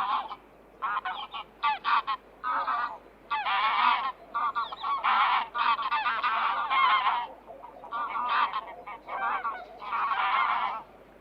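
A flock of domestic waterfowl calling over and over: many short, nasal calls in quick succession, some overlapping, with brief pauses between runs.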